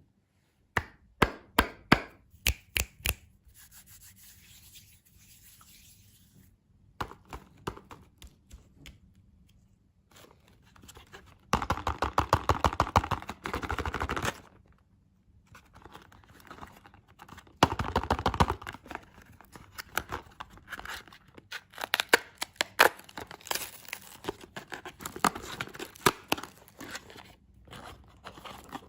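Candy packaging handled close up: a run of sharp taps, then stretches of tearing and crinkling wrapper.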